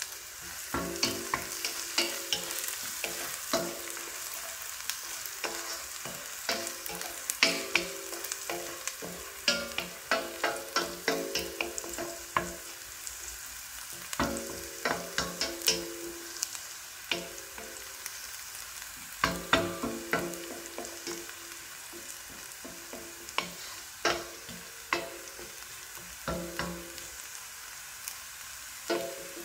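Food sizzling steadily in hot oil in a pan, while a metal spoon stirs it, scraping and clinking against the pan many times at irregular intervals.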